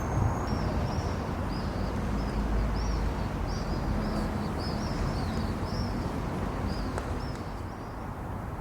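A small bird chirping over and over in short, high, quickly repeated notes, over a steady low outdoor rumble of city ambience.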